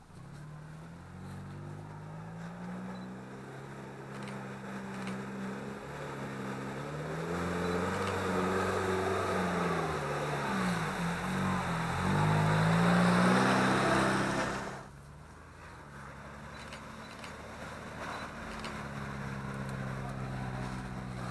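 Off-road 4x4's engine revving up and down under load, with a rushing, churning noise that builds with it and stops suddenly about fifteen seconds in; the engine then runs on more quietly.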